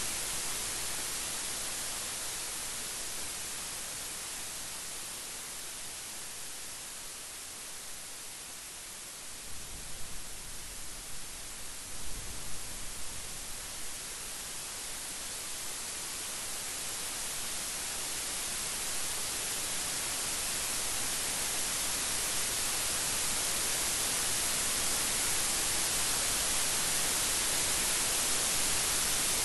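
Steady hiss of heavy rain that eases a little, then swells louder through the second half. Brief low rumbles of thunder come about ten and twelve seconds in.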